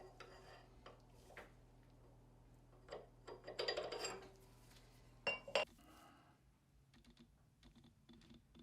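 Light clicks and knocks of small steel tools and parts being handled, with a short rasping stroke about three and a half seconds in and two sharper knocks about a second later, over a faint low hum that stops about six seconds in.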